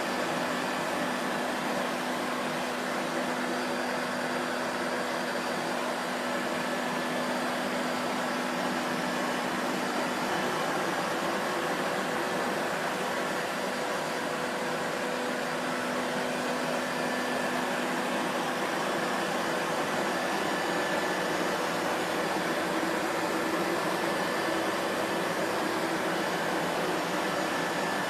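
Vacuum cleaner running steadily: a continuous rush of air and motor noise with a faint hum that comes and goes.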